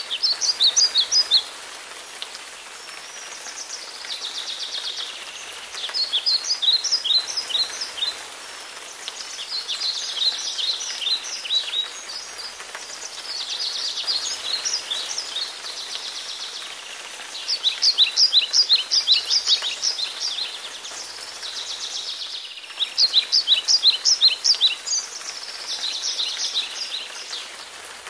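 A songbird sings a phrase of quick, falling notes about every four seconds, with softer, hazier calls between phrases, over a steady hiss like rain.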